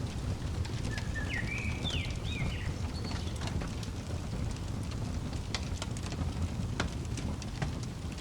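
Wood fire crackling, with scattered sharp pops over a low steady rumble. About a second in, a bird gives a short phrase of a few quick chirping notes.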